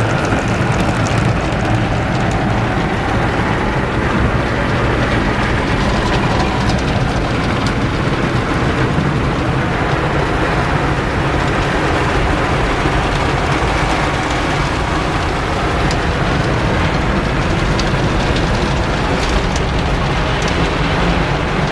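MacNeil In-Bay Express Mini Tunnel car wash working over the car, heard from inside the cabin: a steady rush of water spray drumming on the body over the low rumble of the wash machinery.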